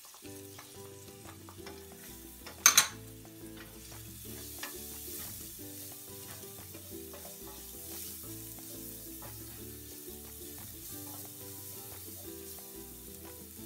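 Chicken feet sizzling in a frying pan as they are stirred, with soft background music. One sharp, loud knock comes about three seconds in.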